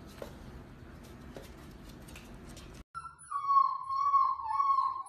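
Faint room noise, then a sudden cut, after which a puppy whines in a high, wavering tone for about two seconds.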